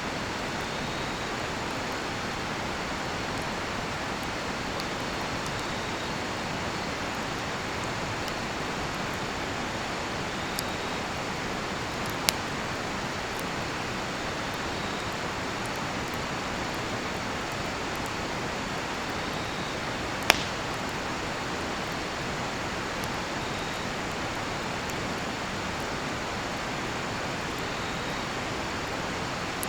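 Steady rush of a flowing river, with a cedar-wood campfire giving three sharp pops, the loudest about twenty seconds in. Faint crickets chirp now and then.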